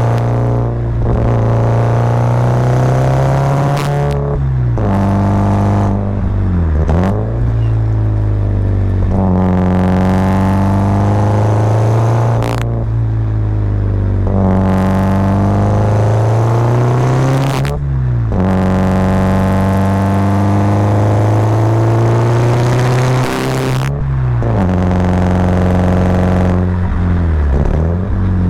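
Subaru Impreza WRX's turbocharged flat-four boxer engine pulling uphill under load. Its revs climb and then drop back sharply about six times, as the driver lifts off or changes gear on the 5-speed manual between accelerations.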